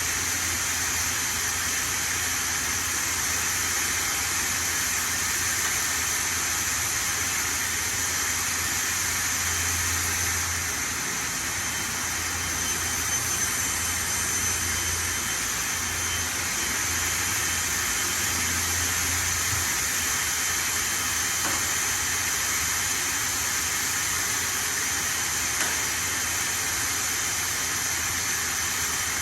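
Hendrick HM3 3200 CNC router cutting plywood: a steady rushing noise with a constant high whine from the spindle and a low hum underneath.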